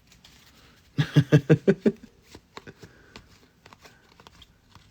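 Trading cards being handled and flipped through in the hands: light rustles and quick small clicks of card on card. About a second in, a short burst of a person's voice in rapid pulses.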